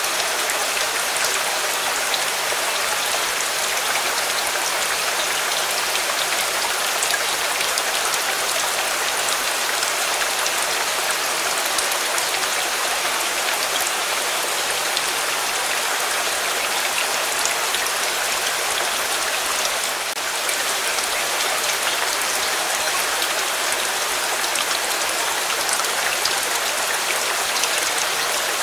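Steady rain falling, a dense even hiss with many small drop patters, dipping slightly for a moment about twenty seconds in.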